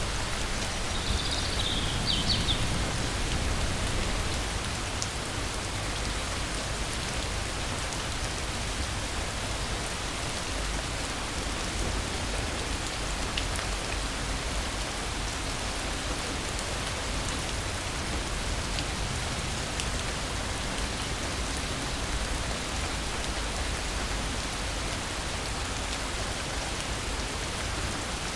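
Steady rain falling on leaves and ground, an even hiss with scattered drop ticks. A short high chirp sounds about a second in.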